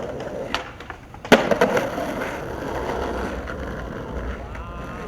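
Skateboard wheels rolling on pavement, a sharp click about half a second in, a brief lull, then a loud slap of the board landing about a second and a half in, after which the rolling carries on.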